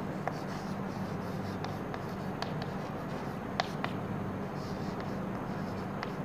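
Chalk writing on a blackboard: short taps and scratches as letters are stroked out, in irregular clicks.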